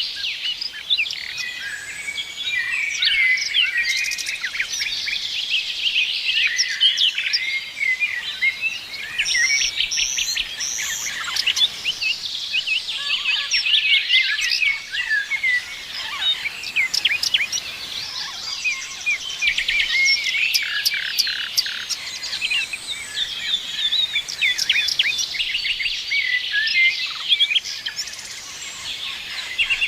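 A chorus of many small birds chirping and trilling together, dense and overlapping, high-pitched, with no pause.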